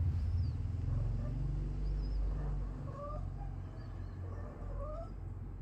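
Tomcat in heat calling, two short rising meows about three and five seconds in, over a steady low rumble.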